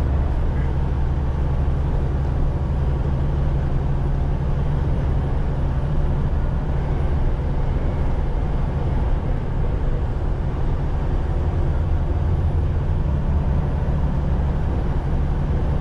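Semi-truck engine and road noise while cruising on the highway, heard from inside the cab: a steady low drone.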